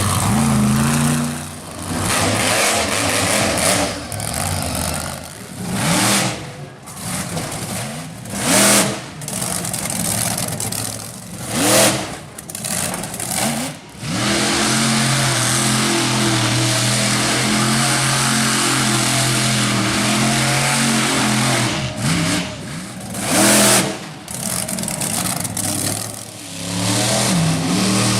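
Monster truck engine revving hard in repeated bursts, then holding steady at high revs for several seconds in the middle. Three short, very loud blasts of noise cut through it.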